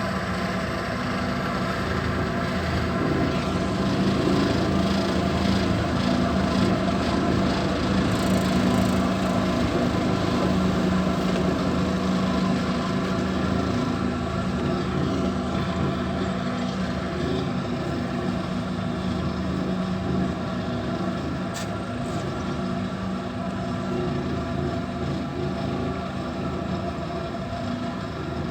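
Engine of a compaction machine running steadily while compacting sand-and-gravel fill for a railway bed, with one brief click about two-thirds of the way in.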